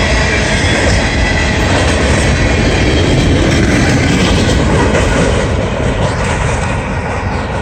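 Empty freight hopper cars rolling past at speed, their steel wheels running over the rails, with a faint high squeal in the first few seconds. The noise thins near the end as the last cars go by and move away.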